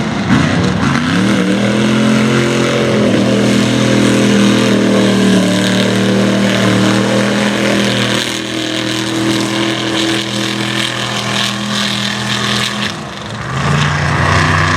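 Mega truck engine running hard at high revs. The pitch dips and climbs again just after the start, holds steady for most of the run, then drops and climbs once more near the end.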